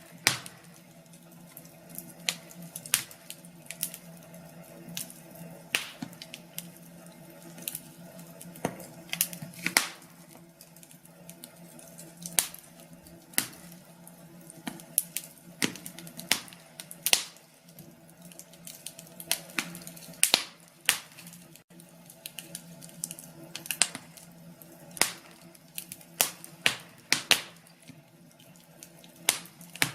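Wood fire in a fireplace crackling: irregular sharp pops and snaps, about one or two a second, over a faint steady background.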